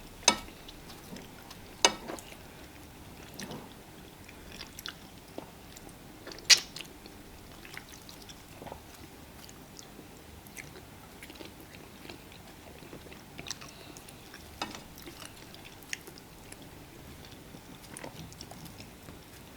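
Eating sounds from fufu and fish pepper soup: quiet chewing with scattered small clicks and a few sharp knocks, the loudest about six and a half seconds in.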